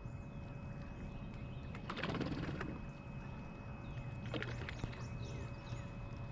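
Small birds chirping in short, repeated calls that slide downward in pitch, over a steady low hum of outdoor background noise, with a brief loud noisy burst about two seconds in and a smaller one about four and a half seconds in.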